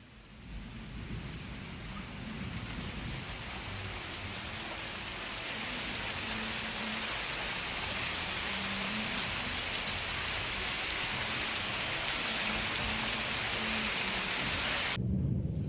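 Heavy rain falling steadily: a dense, even hiss that fades in over the first couple of seconds and cuts off abruptly near the end.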